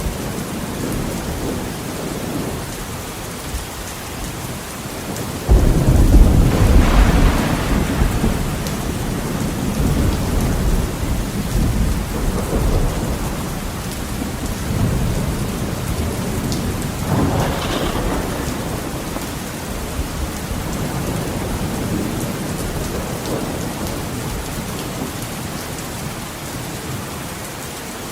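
Heavy rain on a window, a steady hiss, with a sudden loud thunderclap about five seconds in that rumbles on for a few seconds, and a second, weaker roll of thunder a little past the middle.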